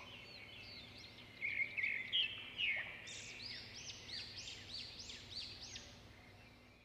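Small birds chirping and calling over one another: quick, high arched notes repeating about twice a second, louder for a stretch about a second and a half in.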